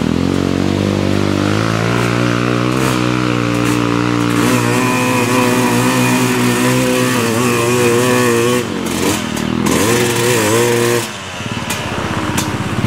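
Dirt bike engine running at low, uneven revs, its pitch rising and falling with the throttle as the bike is ridden slowly down a muddy rut. The engine note drops off briefly about eight and a half seconds in and again near eleven seconds.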